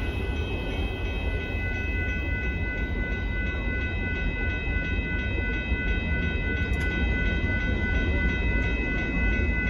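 Freight train of grain cars rolling steadily past, a continuous low rumble with a steady high ringing tone over it.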